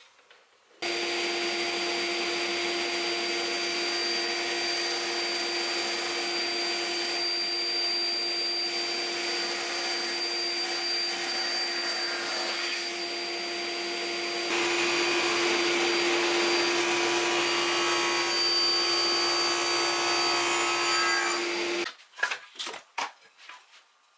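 An electric workshop machine switches on about a second in and runs with a steady hum and whine. It gets louder about two-thirds of the way through and cuts off near the end, followed by a few quick knocks.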